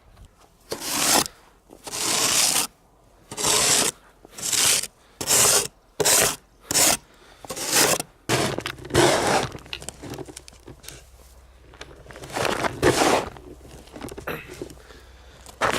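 Snow shovel scraping through deep fresh snow, a series of rough scrapes about one a second, then fewer and farther apart. A low steady hum comes in about halfway through.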